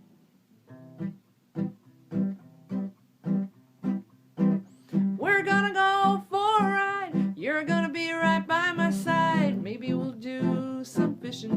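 Acoustic guitar strummed in a steady rhythm as a song intro, about one strum every 0.6 s. A wavering melody line joins over it about five seconds in.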